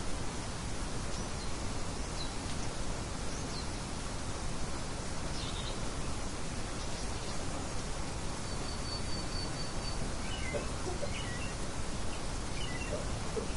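Steady wind noise with scattered small bird chirps over it, including a short rapid trill about halfway through.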